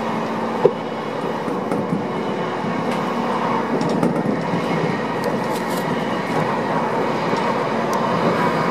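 Odakyu 1000-series electric train running at speed, heard from inside the front car: a steady rumble of wheels on rail and running gear. There is one sharp click less than a second in.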